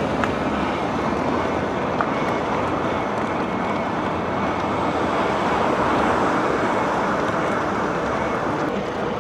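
Steady rushing of wind and road noise on the microphone of a moving e-bike, with a couple of faint ticks.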